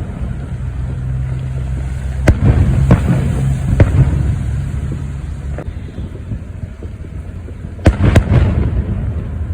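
Fireworks going off: sharp bangs about two, three and four seconds in, then a quick run of three near the end, over a steady low rumble.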